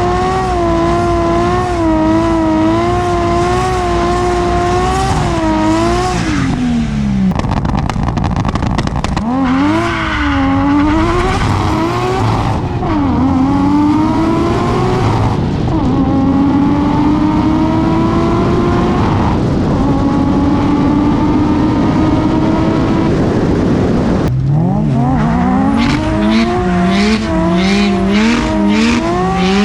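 Race car engine at a drag strip. For the first few seconds it holds high revs with a wavering pitch. Then it makes a hard run, the pitch climbing through about four gears with a drop at each shift. Near the end the revs rise again and waver.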